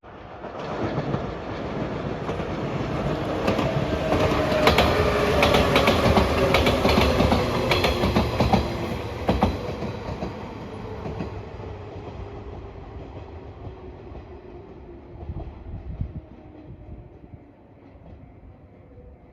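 A train passing close by at speed: wheels clicking over the rail joints and a hum that falls in pitch as it goes by. It builds to its loudest a few seconds in, then fades away.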